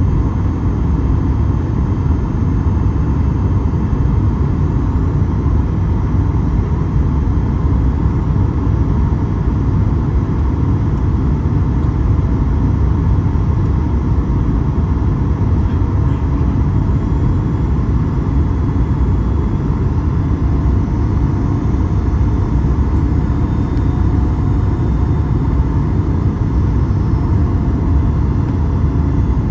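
Steady low rumble of cabin noise aboard a Boeing 737 MAX 8 in flight: engine and airflow noise heard from inside the passenger cabin.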